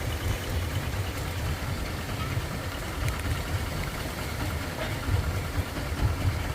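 A motor engine idling with a low, uneven throb.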